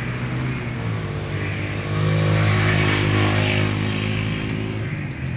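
A passing motor vehicle's engine, a steady hum that grows louder about two seconds in and fades toward the end.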